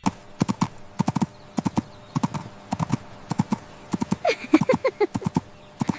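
Horse hooves clip-clopping in a steady trotting rhythm, with a short whinny of falling cries about four seconds in.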